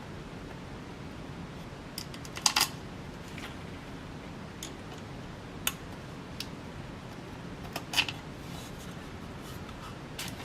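Sharp clicks and clinks from handling the ceiling fan's blade hardware as the blades are fitted. There are several separate clicks, with the loudest small cluster about two and a half seconds in and another near eight seconds.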